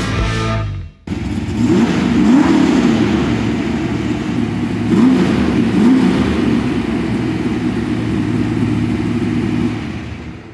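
Hemi V8 engine running, blipped a few times so its pitch rises and falls, then fading out near the end. Rock music cuts off about a second in.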